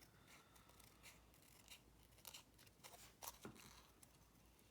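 Faint, scattered snips of scissors cutting through paper collaged with book pages.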